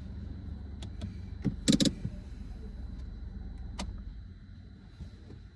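Low steady car engine hum inside the cabin, with several sharp clicks and a louder double click about a second and a half in, and another click near four seconds; the hum eases off near the end.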